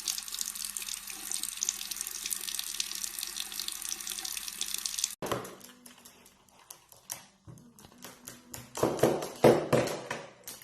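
Water running steadily with a hiss, like a tap into a sink, for about the first five seconds, then cutting off abruptly. Afterwards come scattered clicks and a few louder knocks near the end.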